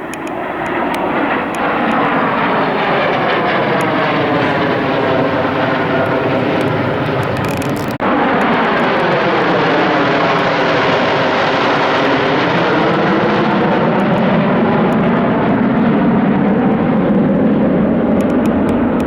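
Jet aircraft flying low overhead, loud jet noise with a whooshing tone that sweeps down and back up as they pass. About eight seconds in the sound breaks off suddenly and another loud pass follows.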